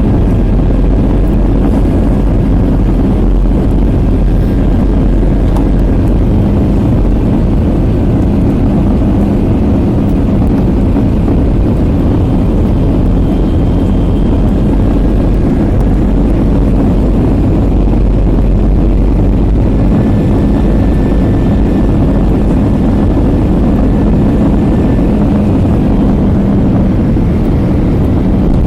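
Steady roar of an Airbus A320's engines and rushing air heard inside the cabin, with a faint humming tone that fades in and out.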